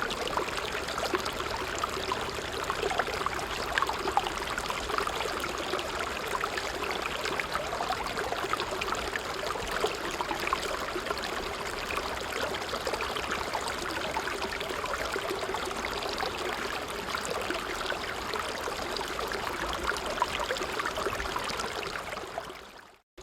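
Creek water running steadily with fine bubbling and splashing, fading out to a moment of silence at the very end.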